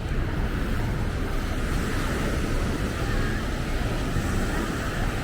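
Ocean surf washing onto the beach as a steady rush, with wind buffeting the microphone.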